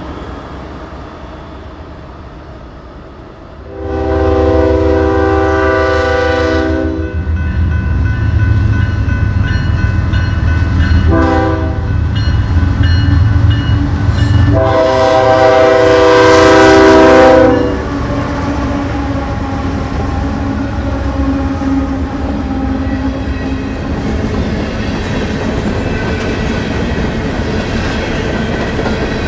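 A passenger train's rumble fading away, then a diesel freight locomotive coming up loud and sounding its multi-tone air horn: a long blast, a short one and another long blast. The loaded string of hopper and tank cars then rolls past in a steady rumble with wheel clatter.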